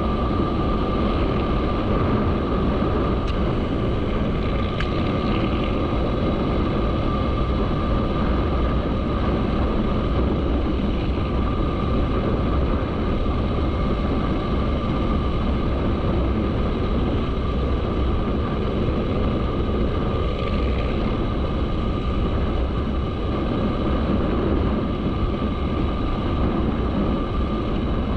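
Motorcycle running at a steady pace, a constant low rumble with a steady tone over it.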